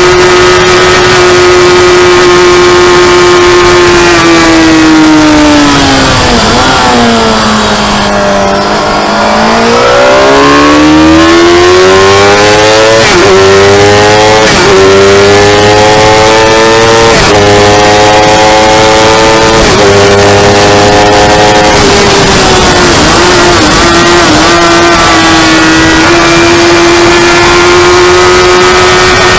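Motorcycle engine at speed: the revs drop with a couple of blips as it slows and downshifts, then climb again through four quick upshifts, and settle steady at high revs near the end. A constant rush of wind noise sits under it.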